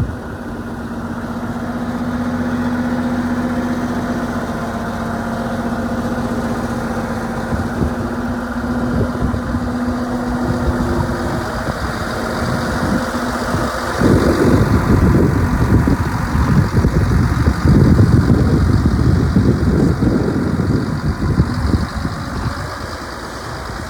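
1993 Cat Challenger 65C tracked tractor's six-cylinder Cat diesel engine running steadily. About halfway through, the sound turns louder with a rough, uneven low rumble.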